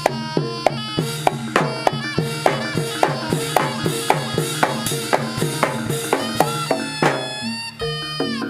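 Jaranan music from a live Javanese ensemble: struck, ringing percussion and drums in a fast, even beat, about three strokes a second, with a reedy wind line, breaking off briefly near the end.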